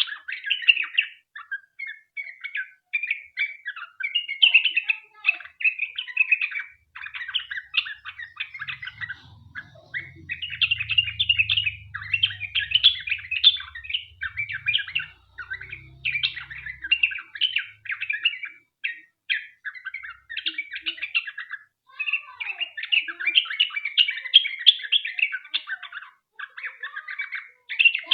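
Yellow-vented bulbul (trucukan) in full song, delivering long runs of rapid, chattering notes in repeated bursts with brief pauses between them.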